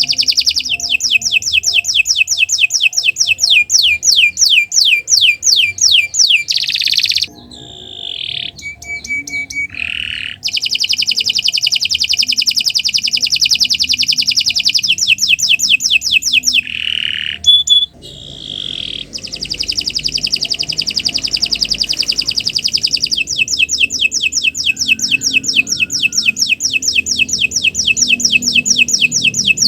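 Domestic canary singing a long, continuous song: fast rolling trills of high notes repeated many times a second, broken twice by short phrases of varied, slower notes before the rolls start again.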